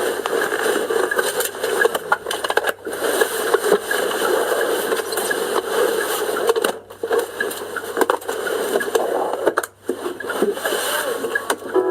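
Noise of a car on the move, heard from inside: a steady rush of road and engine noise, with many small clicks and rattles.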